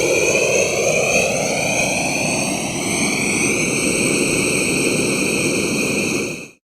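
Science-fiction jet thruster sound effect: a loud, steady rushing thrust noise with a sweeping tone that rises over the first few seconds and then holds, cutting off abruptly near the end.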